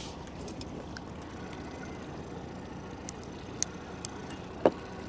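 Steady, fairly quiet background noise aboard a small fishing boat on the water, with a few light clicks and a short knock about four and a half seconds in.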